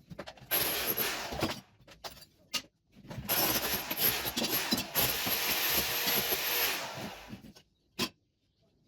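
Renovation work noise from tools and tile rubble: a short burst of scraping and clattering, then about four seconds of steadier scraping, with a few sharp knocks in between and one near the end.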